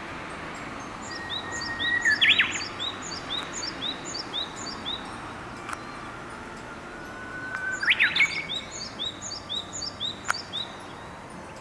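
Japanese bush warbler singing its hō-hokekyo song twice: a long held whistle that breaks into a quick, loud flourish. Between and after the songs, another small bird repeats short high chirps about three times a second over a steady outdoor hiss.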